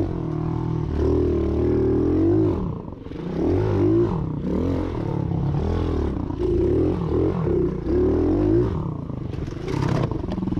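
Small Chinese pit bike engine being ridden hard round a dirt track, the revs rising and falling every second or so through the turns. It drops to a lower, steadier note near the end.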